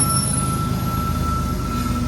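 Freight train cars rolling past with a steady low rumble. A thin, steady high squeal from the wheels fades out near the end.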